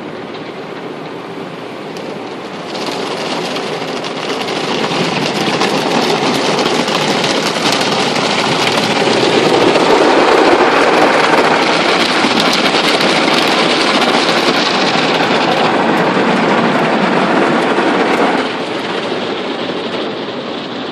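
Automatic car wash scrubber brushes spinning against the car body with water spraying, heard from inside the car: a loud, steady rushing noise that swells about three seconds in and drops back near the end.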